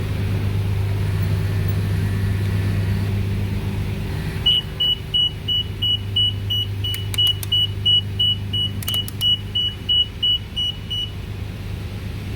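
A steady low hum with a rapid electronic beep over it, about two and a half short high beeps a second, starting about four seconds in and stopping about a second before the end.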